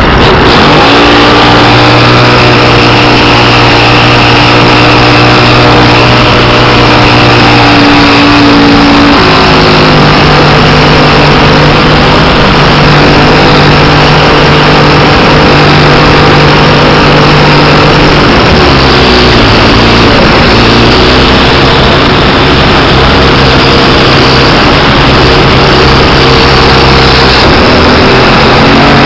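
Engine and propeller of a 1/5-scale Piper Cub RC model aircraft running loud and close, heard from a camera on its wing strut. The engine note shifts in steps as the throttle changes: up about nine seconds in, dipping and wavering around eighteen to twenty-one seconds, then climbing again twice near the end.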